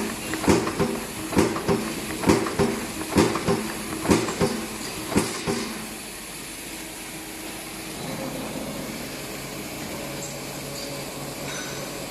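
HAFA-70 saw-blade applying machine for boxes cycling, with a knock about once a second. About five and a half seconds in the knocking stops, and only a steady running hum and hiss remain.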